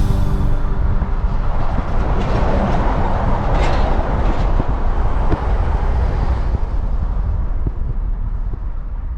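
Vehicle driving on the road: a steady rumble of engine and road noise with a few faint knocks, starting to fade out near the end.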